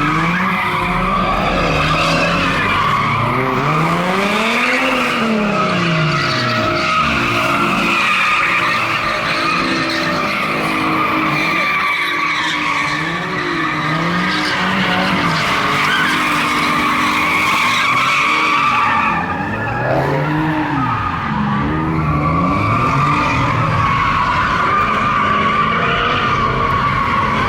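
Car tyres squealing without a break as a car slides through a drift, while its engine revs up and falls back again and again.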